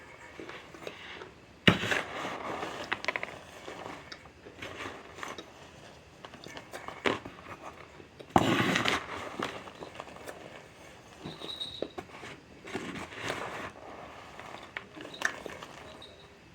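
Chunks of cornstarch being bitten and chewed: two loud crunching bites, about two seconds in and again about eight seconds in, with softer chewing and small clicks between.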